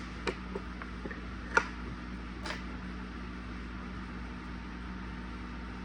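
A few light, sharp taps of a knife cutting deli meat in half on a board, the loudest about a second and a half in, over a steady low electrical hum.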